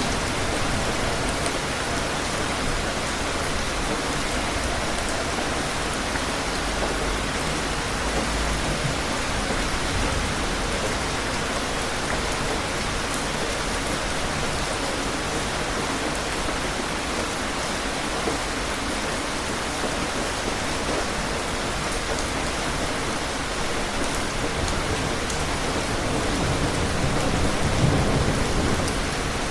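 Steady heavy rain falling, a dense even hiss of drops. A low rumble swells near the end.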